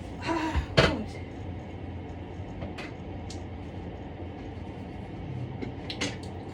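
Kitchen cookware being handled: a sharp clatter of knocks about a second in, a few light ticks, and another short clatter near the end, over a steady low hum.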